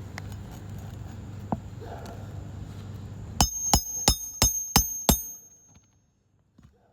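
Six hammer blows, about three a second, on a steel roof snake slid under a shingle, each with a metallic ring, driving a roofing nail the rest of the way in.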